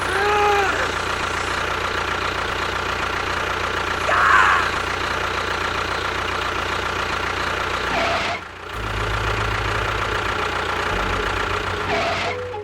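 An engine running steadily with a low hum. A few short squeaky sounds rise and fall over it. The sound dips briefly about two-thirds of the way through, then carries on with a deeper hum.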